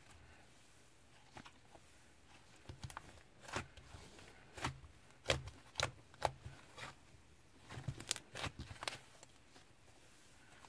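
Slime being squeezed and poked by hand, giving a run of irregular sharp pops and clicks, several of them louder snaps in the middle and near the end.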